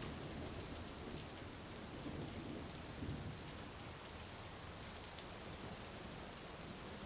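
Steady heavy rain with a low rumble of distant thunder swelling through the first half, and a few faint scattered ticks.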